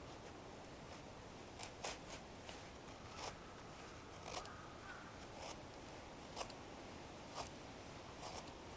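A series of short, sharp clicks or snips, roughly one a second, over a faint steady hiss.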